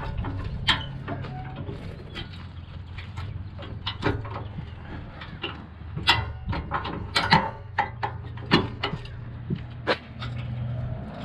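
Irregular sharp metal clicks and clanks, about a dozen of them, over a steady low engine hum.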